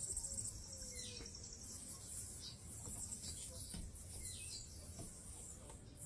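Birds giving short, high, falling chirps every second or so, over a steady high insect trill.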